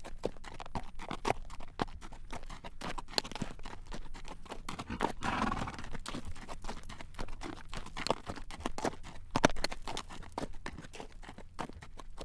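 Horse's hooves clacking on a road at a walk as it draws a carriage, a steady clip-clop. A short rushing sound rises and fades about five seconds in.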